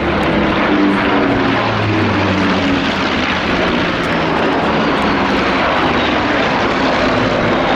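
Rolls-Royce Merlin piston engine of a Second World War fighter making a display pass: a loud, steady propeller drone whose pitch sinks slightly as it goes by.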